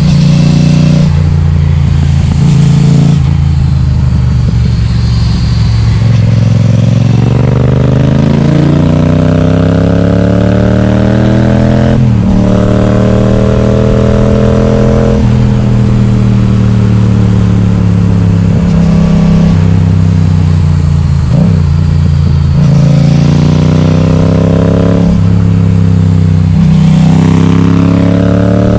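Yamaha XSR700's 689 cc parallel-twin engine, loud through an Akrapovic exhaust with the baffle removed, pulling hard on the move. The pitch climbs under acceleration, drops sharply at a gear change about twelve seconds in and again near the end, and sinks slowly as the throttle eases in between.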